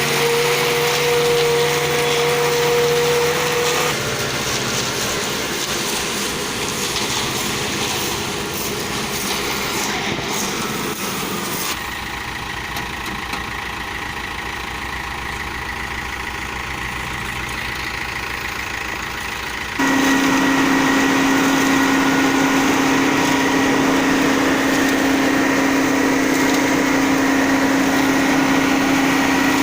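Ajex Fiori concrete mixer's engine running steadily, its sound changing abruptly three times, loudest after the last change.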